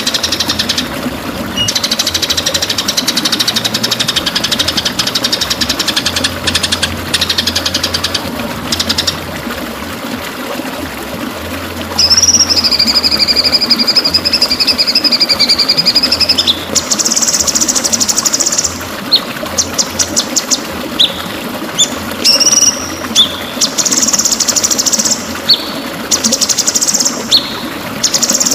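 White-rumped shama (murai batu) singing: fast rattling trills and chatter, a long clear whistled note about twelve seconds in, then a run of quick sharp notes and trills.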